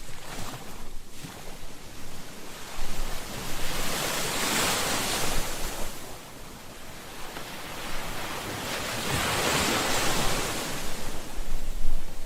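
Ocean waves breaking and washing on a shore, a continuous hiss that swells and fades: one wave peaks about four seconds in and another about nine to ten seconds in.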